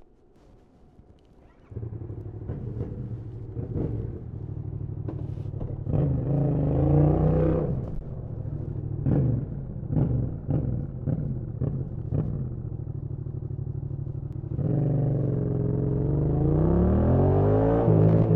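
Yamaha MT-07 parallel-twin motorcycle engine that comes in about two seconds in, running at low revs with scattered clicks, a swell of revs about six seconds in, then revs climbing steadily from about fifteen seconds on as the bike accelerates.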